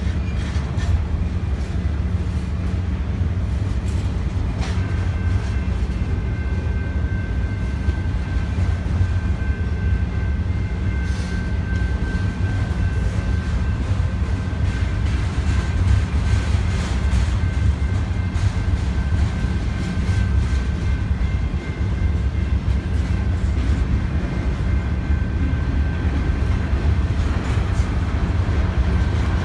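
BNSF double-stack intermodal freight train rolling past: a steady heavy rumble of wheels and cars on the rails, with a steady high whine joining about five seconds in and fading near the end.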